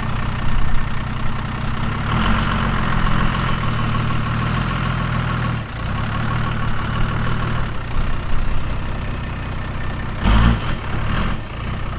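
Tow vehicle's engine running under load as it pulls a caravan slowly over a rough, rocky track, the engine note shifting as it works through a dip. A single heavy knock comes about ten seconds in.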